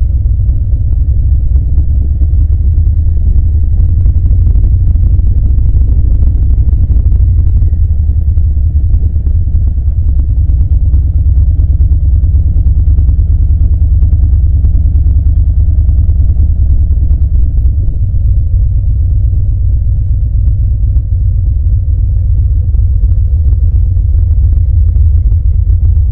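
Harley-Davidson V-twin motorcycle engine running at a steady pace on the move, a deep even rumble with no revving up or down.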